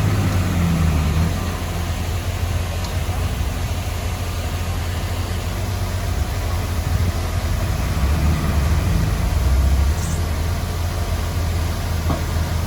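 Heavy diesel earthmoving machinery running steadily, a deep engine rumble with a slight swell in load a little past the middle.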